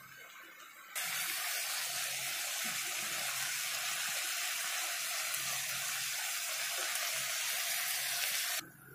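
Raw banana and potato curry sizzling in a frying pan: a loud steady hiss that starts suddenly about a second in and cuts off suddenly near the end.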